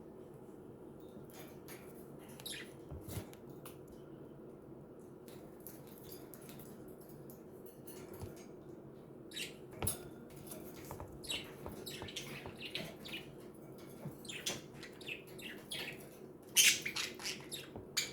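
Pet budgerigars chirping and chattering in short, scattered high-pitched calls, growing busier and louder in the last few seconds, over a faint steady low hum.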